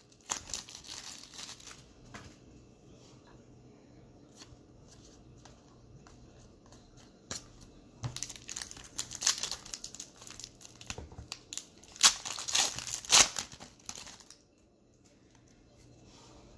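Trading card pack wrappers being torn open and crinkled by hand. The crinkling comes in spells: a burst at the start, quieter handling with small ticks, then a louder stretch of crinkling and tearing about halfway through that stops a couple of seconds before the end.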